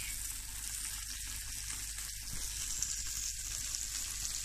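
Beer-battered kahawai strips frying in a hot pan of oil: a steady sizzle.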